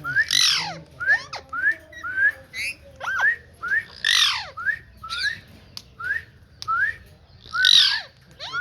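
Green ringneck parrot calling over and over in short rising whistled chirps, about two a second, broken by three louder, harsh squawks.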